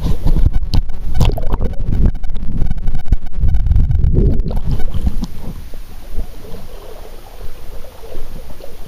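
Creek water sloshing and swirling close to the microphone, with uneven low rumbling from wading through the stream. It is loudest in the first half and quieter near the end.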